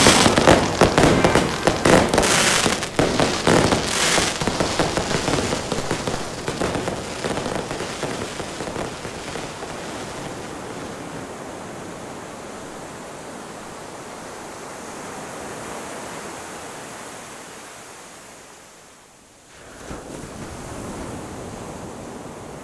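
Fireworks crackling and popping in quick succession, thinning out and fading over the first several seconds. After that, a steady rushing noise remains, dipping briefly near the end.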